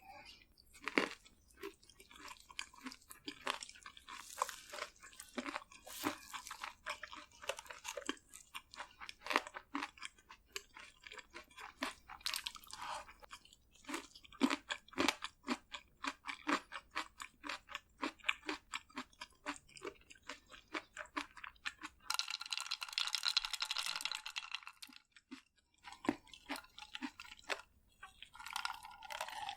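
Close-miked crunching and chewing of crispy fried food, a quick run of sharp crunches with pauses between bites. About two thirds of the way through, a louder, denser noise lasts about three seconds.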